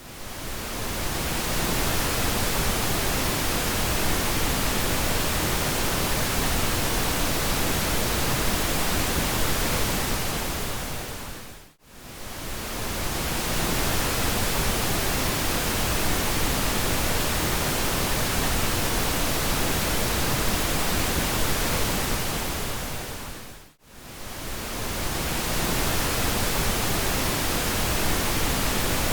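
Steady pink noise, an even hiss over all pitches, that briefly fades out and swells back in twice, about twelve seconds apart.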